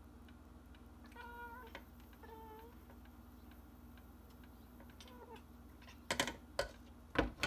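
Domestic cat giving short, quiet meows, three times, each bending slightly in pitch. Near the end come a few sharp clicks and knocks.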